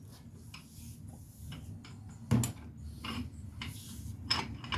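Socket wrench on a wheel hub bolt: scattered metal clicks and ticks, with one sharp metal clack a little over two seconds in.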